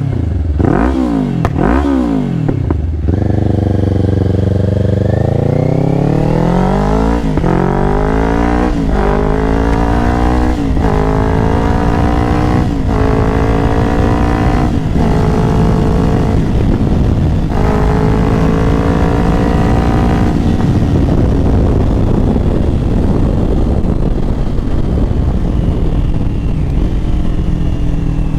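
Kawasaki Ninja 500's parallel-twin engine through a Yoshimura AT2 full exhaust, heard from on the bike: a couple of quick throttle blips, then hard acceleration with the pitch climbing and dropping at each of several upshifts, settling to a steady cruise with wind noise after about twenty seconds.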